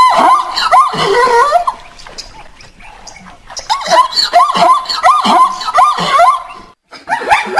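Chickens clucking in quick runs of short calls, with a quieter stretch of a second or so in the middle. The sound cuts off sharply near the end and a different animal's calls begin.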